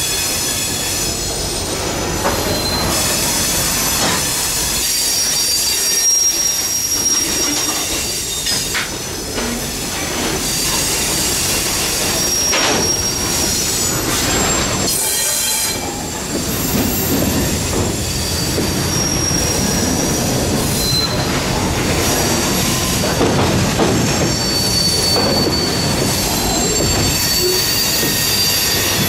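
Freight train rolling past with its wheels squealing against the rails: several high thin squeals come and go over a steady rumble of the cars.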